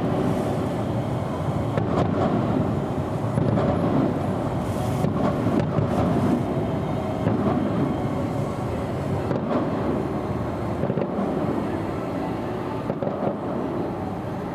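Distant fireworks heard as a continuous low rumble that swells and eases, with no music.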